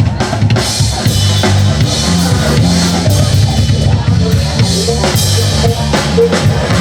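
Live band music led by a drum kit, with kick and snare keeping a steady beat over a bass line.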